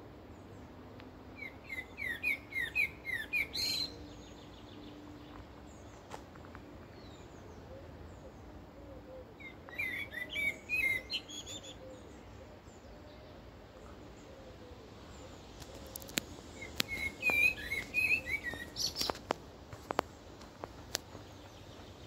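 Birdsong from the trees: three short bouts of quick, high chirping notes several seconds apart, with a few sharp clicks near the end.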